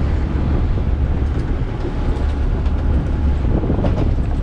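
Sport-fishing boat's engine running steadily: a constant low drone under an even rushing noise.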